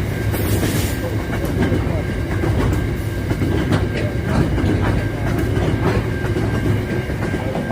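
Aurizon grain train rolling past, a steady rumble with the clickety-clack of wheels over rail joints. A thin, steady high-pitched whine runs through it.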